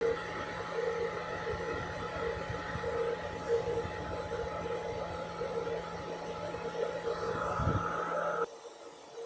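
Steady machine hum with a low pulsing tone that swells about twice a second; it drops away abruptly near the end.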